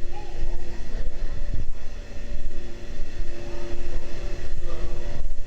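Train running: a steady low rumble with a faint steady whine over it.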